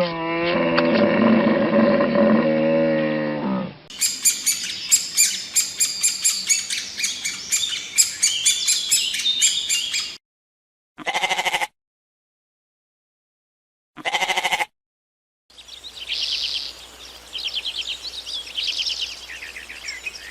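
A string of separate animal sound clips: a cow mooing for the first four seconds, then fast, high bird chirping. Two short calls follow, each with silence around it, and then more bird chirping.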